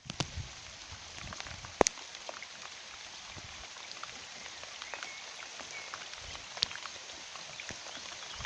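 Rain falling on a garden pond: a steady hiss of rain with many small drop ticks on the water, and a couple of louder single drops, near two seconds and six and a half seconds in.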